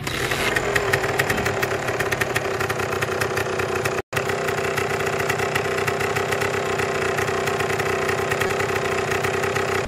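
A car engine idling, with a steady hum and a fast ticking rattle. The sound cuts out for an instant about four seconds in.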